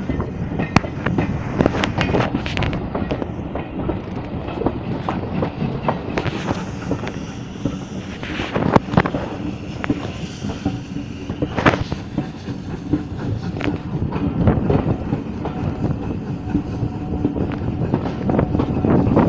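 Railway carriage rolling along, heard from its window: a steady running rumble with the clickety-clack of the wheels over rail joints and scattered sharp clicks.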